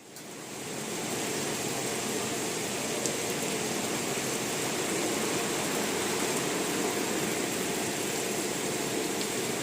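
Heavy rain pouring steadily, a dense even hiss that fades in over about a second.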